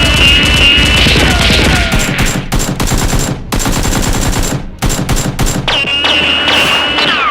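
Rapid machine-gun fire sound effects, dense volleys of shots over music. A held high tone sounds twice, early and again near the end, among falling whistle-like tones.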